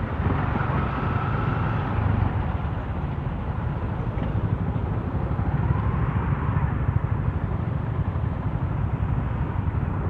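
Motorcycle engine running with steady road noise while riding, a continuous low drone heard through an Akaso V50X action camera's microphone.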